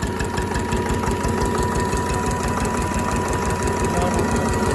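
Slavia 8 hp stationary diesel engine running at low speed with a steady, even chug of firing strokes.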